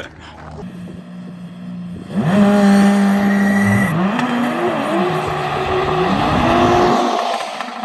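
A car engine first runs with a low steady note, then about two seconds in is revved hard under acceleration, its pitch climbing, dropping back and climbing again several times, over a hiss of tyres.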